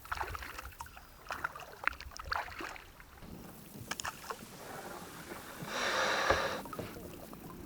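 Kayak paddle strokes in lake water: the blades dip and drip with small splashes, and a louder swishing splash comes about six seconds in.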